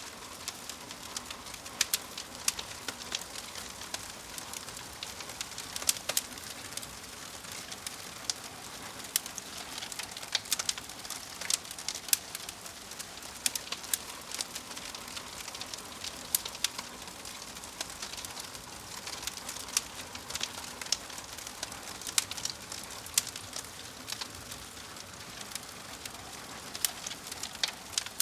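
Wood fire of burning logs in a fireplace crackling, with frequent irregular sharp pops and snaps over a steady hiss.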